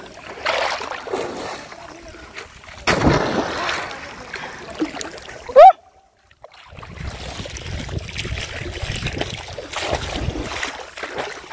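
Water splashing and churning in irregular surges. About halfway through there is a short, very loud rising sound, and the audio drops out for about a second.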